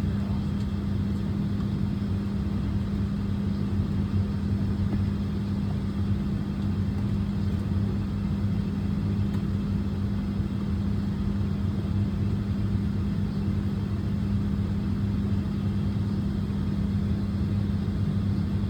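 Airbus A220 during pushback: a steady low hum with an even rumble beneath it, unchanging throughout.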